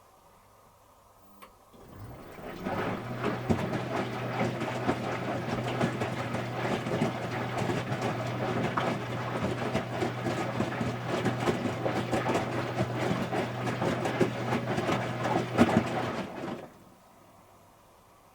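Electrolux Wascator W355H commercial washing machine running with a steady low hum under dense rattling and clicking. The noise starts about two seconds in, runs for around fourteen seconds, and stops abruptly near the end.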